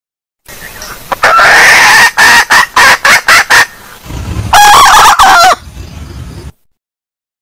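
Red junglefowl hen calling: a drawn-out note, then a quick run of about seven clucks, then a higher, stepped call about four and a half seconds in. It is played loud, as a lure call.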